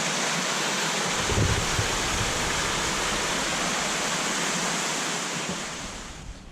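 Steady rush of falling water from a resort waterfall or fountain, with a brief low buffet of wind on the microphone about a second in. It fades away near the end.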